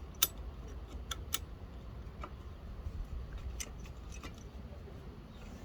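Scattered sharp clicks and light taps of small metal parts being handled and fitted, as the carburettor linkage and springs of a Honda Izy lawn mower are put back together. The loudest click comes about a quarter second in, with two more just after one second.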